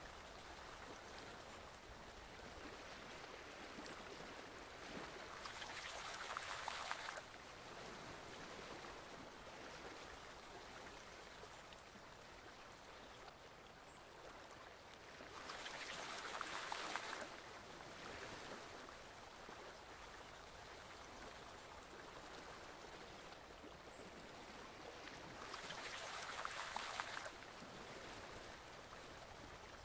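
Forest stream flowing steadily, with a louder rush of water three times, about every ten seconds, each lasting a second or two and cutting off sharply.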